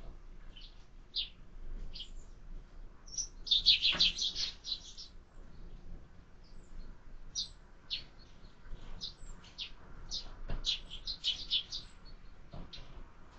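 Birds chirping at a seed feeder: scattered short, high chirps, with quick rapid flurries about four seconds in and again around eleven seconds.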